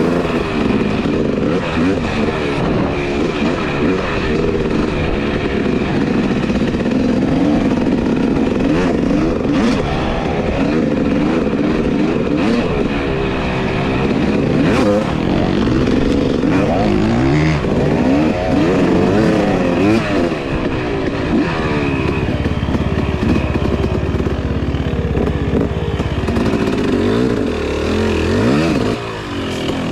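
Two-stroke dirt bike engine under way, revving up and down over and over as the rider works the throttle and gears, easing off briefly near the end.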